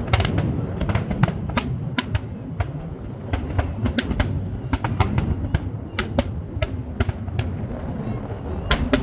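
Fireworks going off: sharp bangs and crackles at irregular intervals, several a second, over a steady low rumble.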